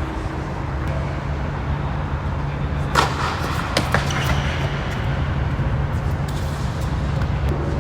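Tennis ball struck by rackets and bouncing during a doubles rally: a few sharp pops about three and four seconds in, over a steady low rumble.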